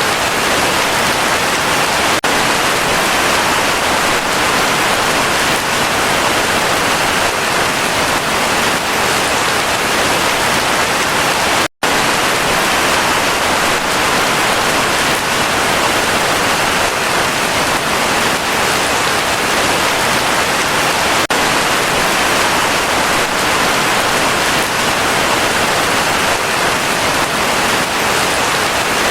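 Heavy rain falling in a steady, dense hiss, with a split-second dropout to silence about twelve seconds in.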